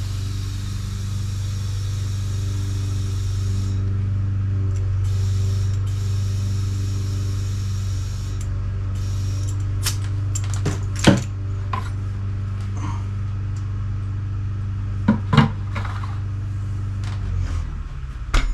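Electric air compressor running with a steady low hum while inflating a motorcycle tyre tube, air hissing in stretches during the first half. A few sharp knocks come in the second half, and the compressor stops shortly before the end.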